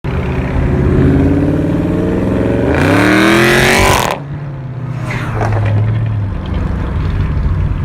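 Dodge Scat Pack's 392 Hemi V8 exhaust idling with a deep steady note, then revved hard about three seconds in. The rev rises in pitch and cuts off sharply, dropping back to idle.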